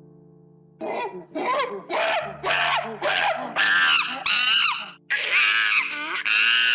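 An animal giving a rapid series of shrill squealing calls, about two a second, starting about a second in, over a steady low drone.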